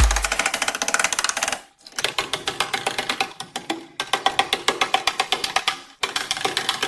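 Rapid, even clicking, about ten clicks a second, in short runs broken by abrupt cuts. A pulsing electronic music beat stops right at the start.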